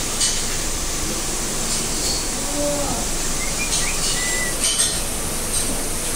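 Steady background hiss with a few short bird chirps, a brief whistle-like call about two-thirds of the way in, and a couple of faint clicks.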